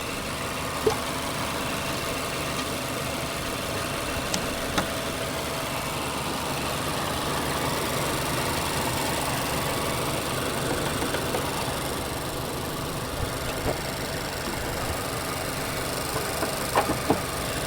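Mazda CX-5's naturally aspirated 2.5 e-SKYACTIV G engine running with a steady noise, with a few short clicks about a second in, near the middle and near the end.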